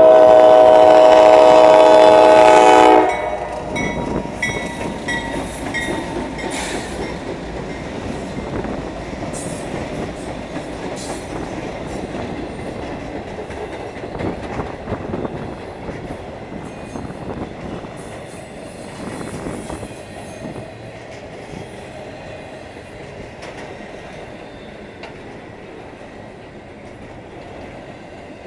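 CSX intermodal freight train sounding its horn in one long chord that cuts off about three seconds in, then its cars rolling by with wheels clattering over rail joints and brief high squeals, slowly fading.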